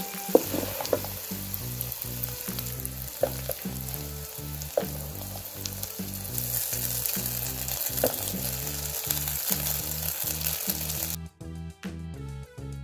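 Chicken chunks and vegetables sizzling in a hot wok while a wooden spatula stirs them, with a few sharp knocks of the spatula against the pan. Background music with a steady beat runs underneath, and the sizzle cuts off suddenly near the end, leaving only the music.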